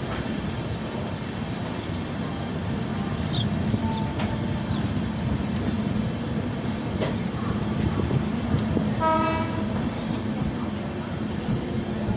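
Moving train: a steady rumble and rattle of the rails and carriage, with a few faint clicks and a brief pitched tone about nine seconds in.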